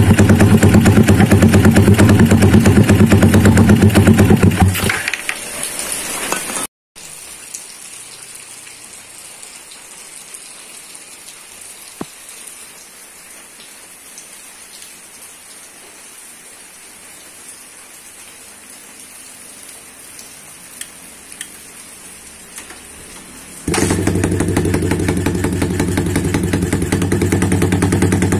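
Yamaha Vixion's single-cylinder four-stroke engine running loud through an aftermarket racing exhaust, then cutting out about five seconds in. A long stretch of faint steady hiss follows, until the engine comes back loud and abruptly about five seconds before the end and keeps running.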